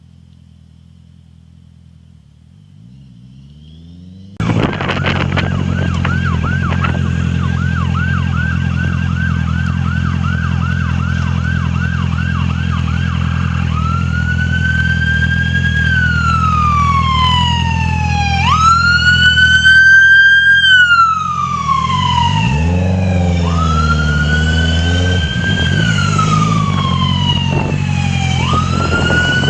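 An emergency vehicle siren starts suddenly and loud about four seconds in. It sounds a fast yelp of about two sweeps a second, then switches to a slow rising-and-falling wail, over a steady low engine drone.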